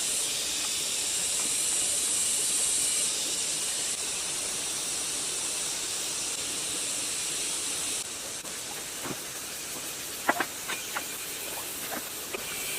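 A steady high hiss of spraying, which drops in strength about three seconds in and again about eight seconds in, followed by a few light sharp clicks near the end.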